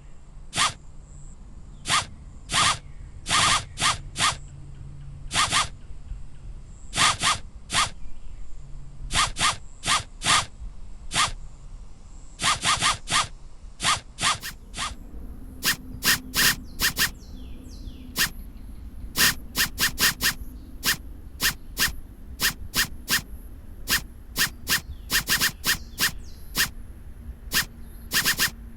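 Short, sharp scratchy rasps like a zipper being pulled, repeated irregularly in quick clusters of two to four, over a faint steady low hum.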